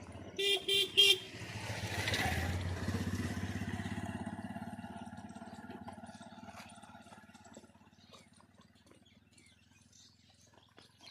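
A vehicle horn honks three times in quick succession. Then a motor vehicle's engine passes close by and slowly fades into the distance.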